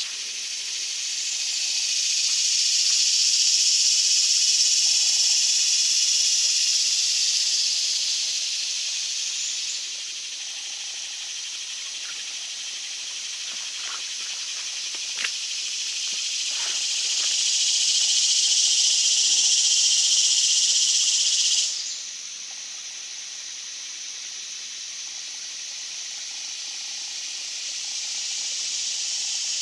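A chorus of swamp insects gives a high, hissing drone that swells and fades in long waves. It drops off abruptly about ten seconds in and again about twenty-two seconds in, with a softer drone left underneath.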